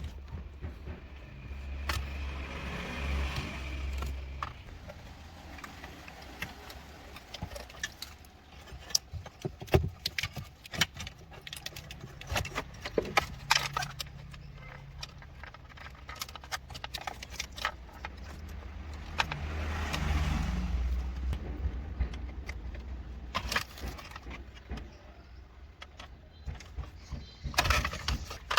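Metal hand tools and parts clinking and knocking in irregular bursts during car repair work, with a low hum rising twice, a few seconds in and again past the middle.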